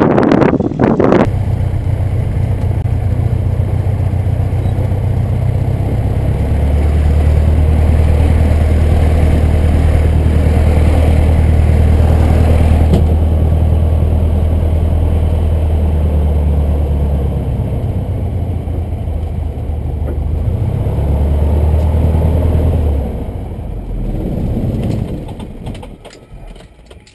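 Cessna 150's four-cylinder Continental O-200 engine and propeller running steadily at low power, shifting in pitch a couple of times, then dying away near the end as the engine is shut down.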